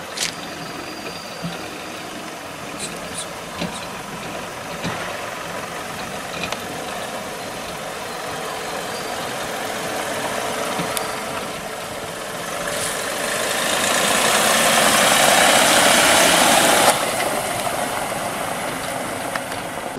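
SUV engine running at low speed as the vehicle creeps through a cone course. About two-thirds of the way in, the sound swells louder for a few seconds, then drops off suddenly.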